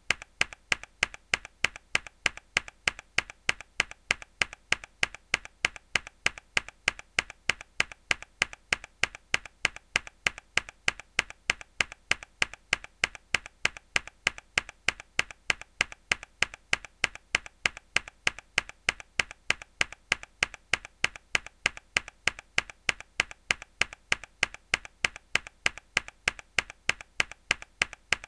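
A single hard key press on a mechanical keyboard, looped: sharp, identical keystroke clicks repeating at an even pace, a few each second.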